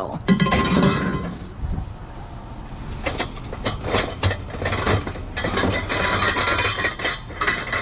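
Loose pieces of scrap metal clanking and clinking against one another as they are handled, a quick run of sharp clinks that thickens in the second half.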